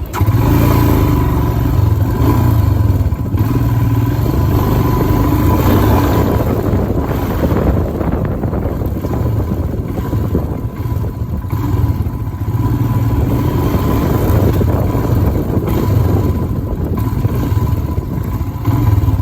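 Royal Enfield Himalayan's single-cylinder engine running steadily while the motorcycle is ridden.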